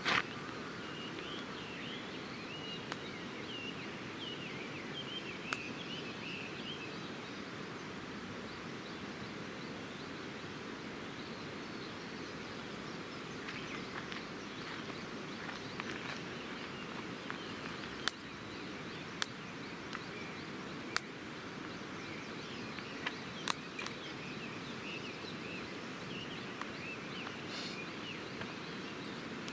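Campfire burning, with a few sharp pops over a steady outdoor hiss. Birds chirp in the background for the first several seconds and again near the end.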